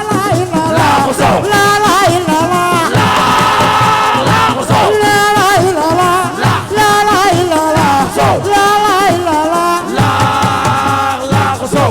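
Live assiko music: a lead voice singing a bending melody over steady drum and shaker percussion, with a fuller group chorus joining about three seconds in and again about ten seconds in.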